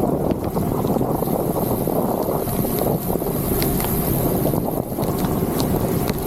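Steady rush of wind on the microphone of a bicycle ridden in heavy rain, mixed with the hiss of rain and wet road spray, with scattered sharp ticks.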